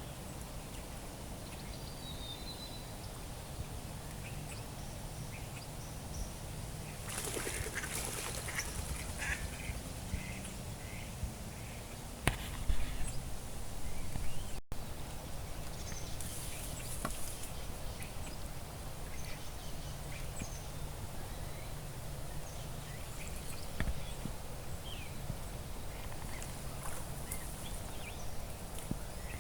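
Waterfowl calling, with small birds chirping. The sound breaks off sharply for an instant about halfway through.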